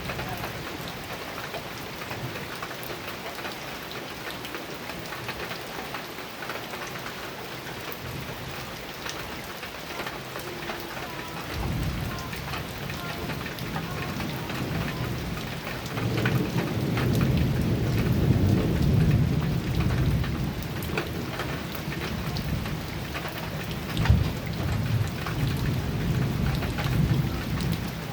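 Heavy rain drumming on a metal roof, with sharp individual drop strikes throughout. Thunder begins rumbling about halfway through, swells to a long loud roll, and a sharp clap comes near the end.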